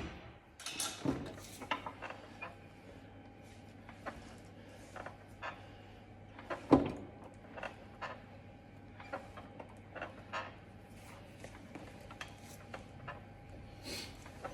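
Quiet gym sound: scattered light clicks and knocks of weights and equipment over a faint steady hum, with one louder knock about seven seconds in.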